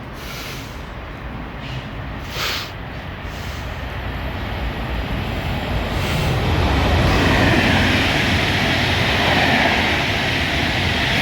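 A train running past on the rails, its rumble and wheel noise building over the first few seconds and staying loud from about six seconds in.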